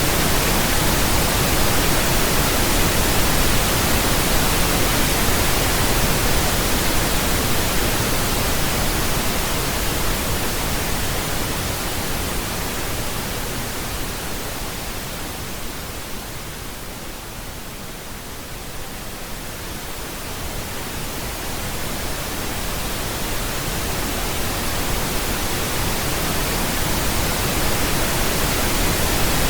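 Steady pink noise, an even hiss spread across all pitches with more weight in the low end than white noise. Its level sinks noticeably around the middle and swells back up toward the end.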